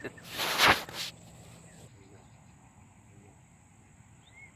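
Steady high-pitched insect drone, with a loud brief rush of noise about half a second in.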